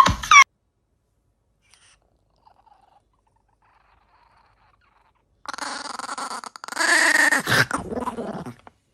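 Several seconds of silence, then an animal vocalising for about three seconds near the end, in drawn-out pitched calls that bend in pitch.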